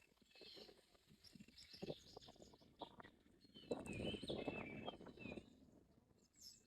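Faint small birds chirping, with short gliding calls clustered around four to five seconds in. A low rumbling noise swells underneath at the same time.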